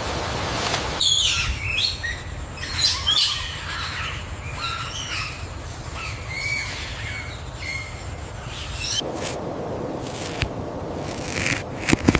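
Bird calls: a run of short chirps with sliding pitch from about a second in until about nine seconds, over a steady hiss. After that the hiss carries on alone, with a few sharp clicks near the end.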